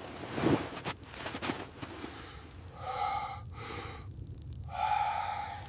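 Heavy, gasping breaths: a sharp intake about half a second in, then two long voiced breaths, the first about three seconds in and the second near the end.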